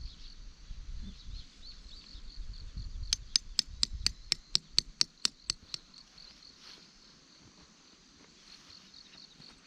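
Crickets or similar insects chirring steadily in a high pulsing trill. About three seconds in, a quick, evenly spaced run of about a dozen sharp clicks, roughly four a second, lasts about three seconds.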